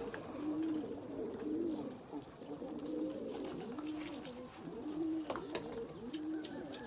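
Domestic pigeons cooing: low coos that repeat about once a second, some overlapping.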